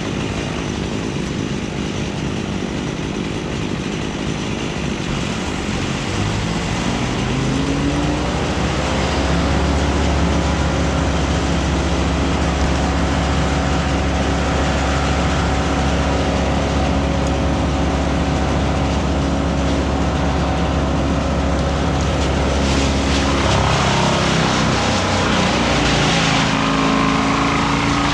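A motor revs up over a few seconds, then runs steadily at high speed. It dips and changes pitch about three-quarters of the way through, then rises again near the end.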